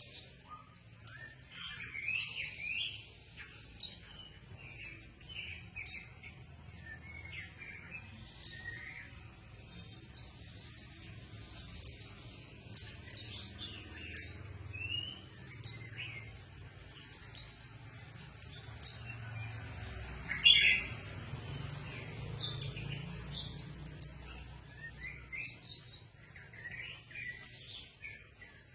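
Songbird singing a varied run of short whistles and chirps, with the loudest burst of song about twenty seconds in.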